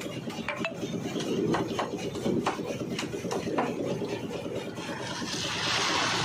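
Concrete roof pour: a steady mechanical rumble, with repeated scraping and clanking of tools on concrete and metal. A rushing hiss swells near the end.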